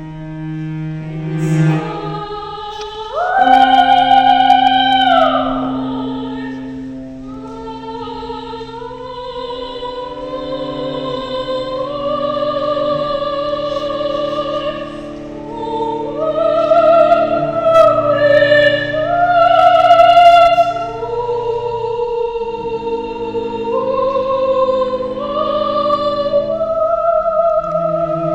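Classical art song: a trained, operatic voice singing long held notes that slide between pitches, over a sustained low accompaniment.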